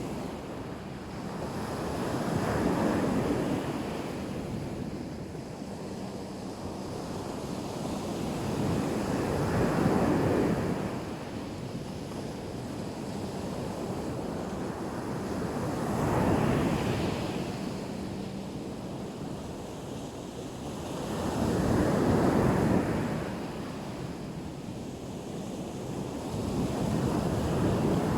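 Black Sea waves breaking on the shore, swelling and fading about every six seconds, five times. Wind buffets the microphone throughout.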